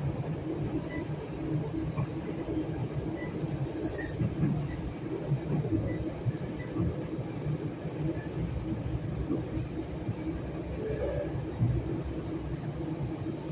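Ride noise inside a moving Metrolink commuter coach: a steady low rumble of the wheels and running gear on the track, with two brief hisses, about four and about eleven seconds in.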